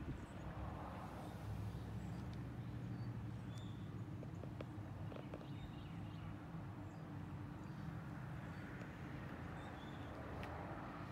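1971 Corvette's 454 big-block V8 idling steadily, a low even rumble from the exhaust. There is a short bump right at the start.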